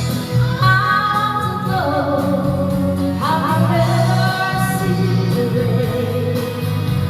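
Karaoke singing over a backing track with guitar: the voice holds two long notes with vibrato, one about half a second in and another about three seconds in.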